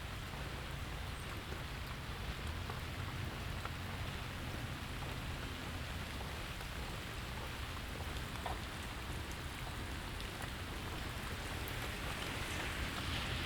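Steady rain falling, with scattered drops ticking on nearby surfaces over a low, even rumble. Near the end the hiss grows brighter and a little louder.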